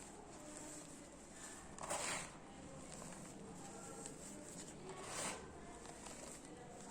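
Balls of dry pure cement being crumbled, giving two short gritty crunches about three seconds apart, the first about two seconds in and the second about five seconds in, with faint crumbling between them.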